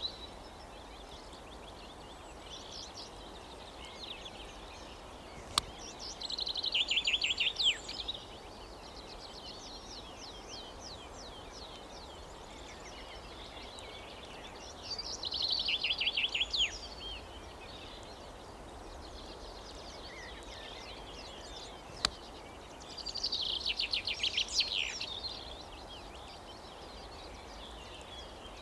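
A songbird singing three bursts of rapid, trilling song, each about two seconds long, over steady outdoor background noise. Two single sharp clicks stand out, one just before the first burst and one just before the last.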